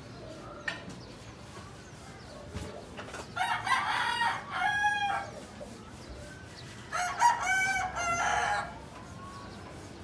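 A bird calling twice, each call a pitched, multi-part cry lasting about two seconds, the first about three seconds in and the second about seven seconds in.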